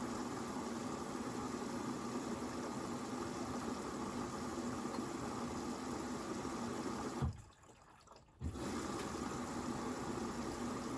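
Hoover VisionDynamic washing machine taking in water at the start of its first rinse, a steady rushing hiss with a low hum. About seven seconds in, the flow cuts off with a thump, goes quiet for about a second, then restarts with another thump.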